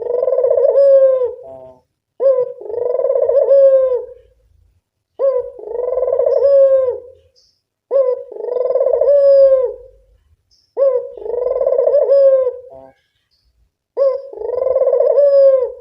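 Puter dove cooing over and over, used as a lure call. There is a phrase about every three seconds, each a short clipped note followed by a longer drawn-out coo.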